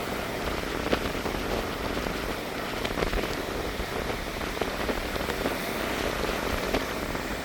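Small sea waves washing onto the beach: a steady hiss of surf with faint crackling clicks scattered through it.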